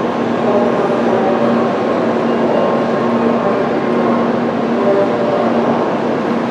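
JR Kyushu N700 series shinkansen standing at the platform, its onboard equipment running with a steady hum amid continuous station rumble.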